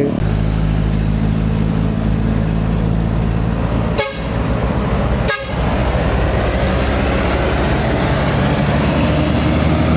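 Heavy diesel truck engine running steadily under load, a deep drone, broken twice by short sharp interruptions about four and five and a half seconds in, with traffic noise growing toward the end.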